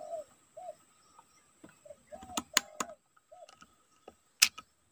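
A bird repeating a short, clear note that rises and falls, in small groups. A few sharp clicks come in between, the loudest about four and a half seconds in.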